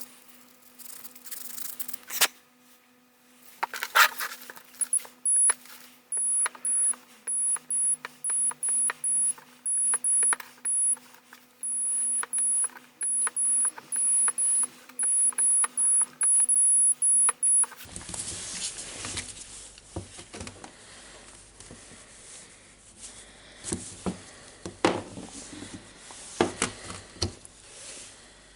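A very high-pitched electronic beep sounding in irregular short pulses, some brief and some held about a second, over light clicks and taps. About eighteen seconds in the beeping stops, and only scattered taps and rubbing of small parts being handled remain.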